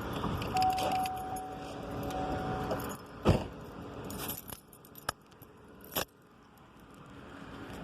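Keys jangling and being handled, with a steady beep about two seconds long near the start and sharp knocks about three and six seconds in.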